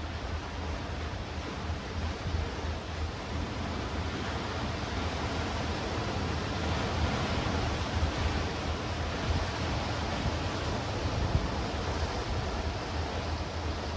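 Sea waves washing over black rocks and stones on the shore, a continuous rushing surf with some wind. It grows a little louder after the first few seconds.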